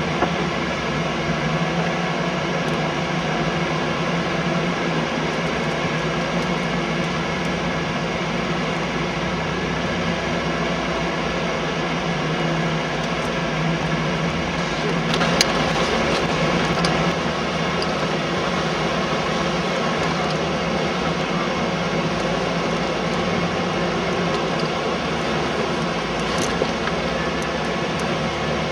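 Off-road Jeep engine running steadily at low trail speed, a constant drone, with a few brief knocks and rattles about halfway through and again near the end.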